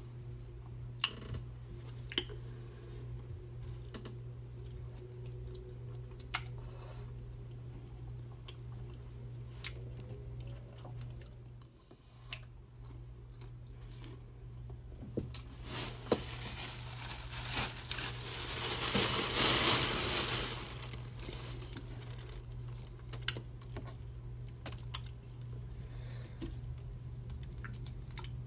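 Close-miked eating of a seafood boil: chewing with scattered clicks and crackles of food being handled, and a louder stretch of crackling and tearing a little past halfway, over a steady low hum.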